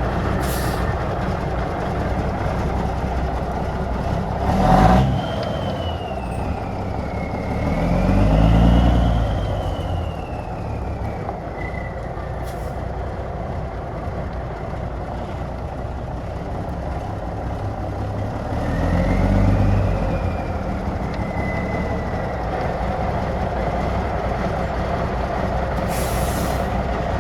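1984 Kenworth K100 cab-over truck's diesel engine running, revved up twice, about eight seconds in and again near twenty seconds, with a whistle that rises and falls with the revs. A short, sharp burst of air comes about five seconds in.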